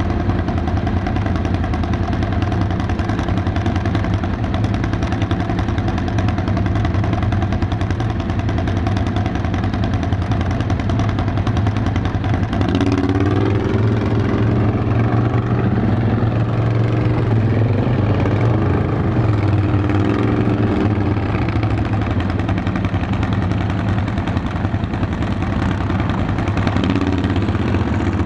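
ATV engine running while riding, heard on board the machine; steady at first, then from about halfway in its pitch rises and falls with the throttle.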